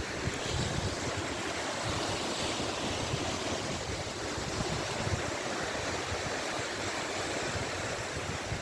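Waves washing steadily onto the Gulf of Finland shore, with wind on the microphone.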